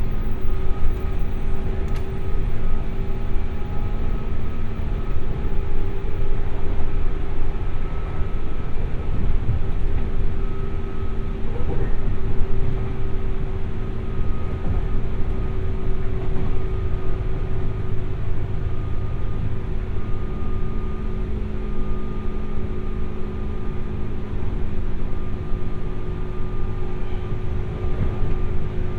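Interior running noise of a JR West 201 series electric train's motor car, heard from a seat at the car end: a steady low rumble of wheels on rail with a few steady whining tones from the drive.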